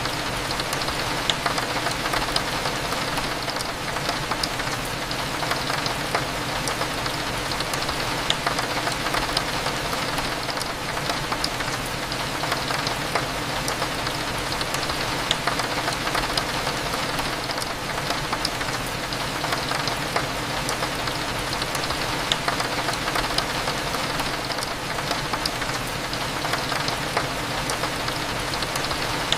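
Steady rain with many small drop ticks, as of raindrops hitting a window, over a low steady hum.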